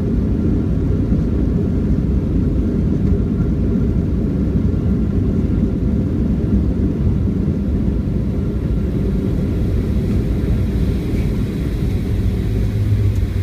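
Boeing 737-800 cabin noise during landing: a steady low rumble, with a deeper hum growing stronger near the end.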